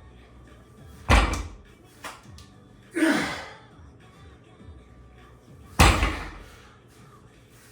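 Two heavy thuds, about a second in and near the end, with a shorter, noisier knock about three seconds in whose pitch drops, over faint background music.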